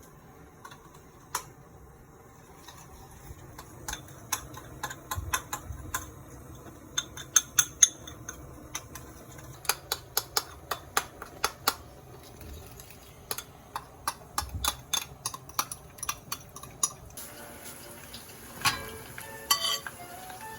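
Kitchen utensils clinking and tapping against dishes and pans in many irregular, sharp strikes. A steady high hiss comes in about three-quarters of the way through.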